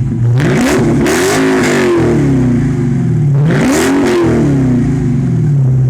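A car's engine being revved through its exhaust, twice: each time the pitch climbs quickly and falls back, with a loud exhaust rush at the top, then it settles back to a steady idle.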